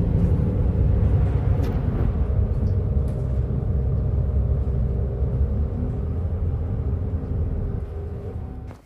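A large vehicle engine running with a steady low rumble and a held hum, fading away near the end.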